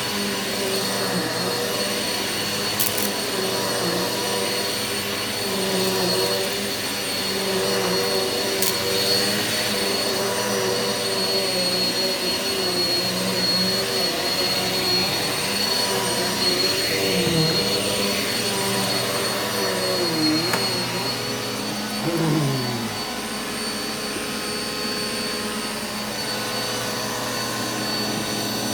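Eureka vacuum cleaner running continuously over carpet, its motor hum wavering slightly in pitch as it is worked, with a brief drop in pitch about twenty seconds in. Two sharp clicks sound early on.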